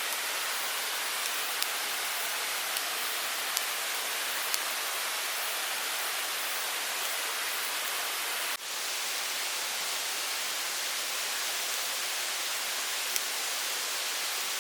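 Steady rushing of a small mountain stream, an even hiss, with a few faint clicks over it and a brief drop in level about eight and a half seconds in.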